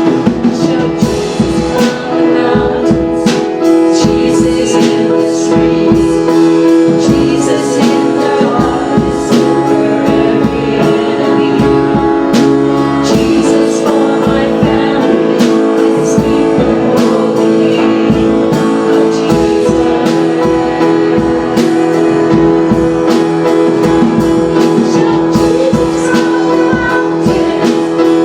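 Live worship band music: guitars and a drum kit play sustained chords at a steady level, with some singing.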